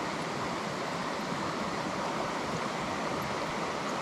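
Steady rushing of river water flowing over rocks, an even hiss.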